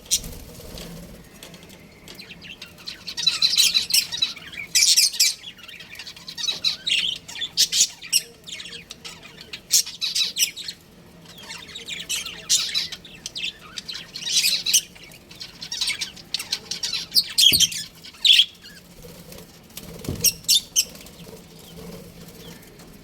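Budgerigars chirping and chattering in bursts of rapid, high chirps and squawks, one burst after another.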